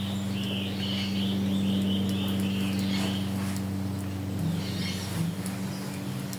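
Songbirds chirping: a quick run of short high notes in the first half, and a few more chirps near the end, over a steady low hum.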